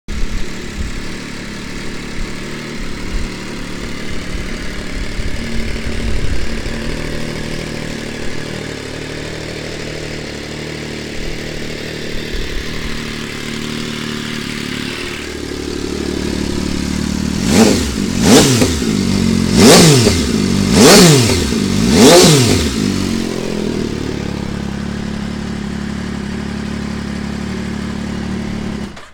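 MV Agusta Brutale RR's three-cylinder engine idling through an FM Project aftermarket exhaust, then blipped five times in quick succession, each rev rising sharply and falling back, before settling to idle again and stopping suddenly near the end.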